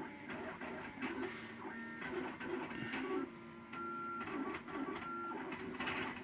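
MakerBot Thing-O-Matic 3D printer's stepper motors whining as it prints: steady tones that jump to a new pitch with each move of the print head, with occasional faint ticks.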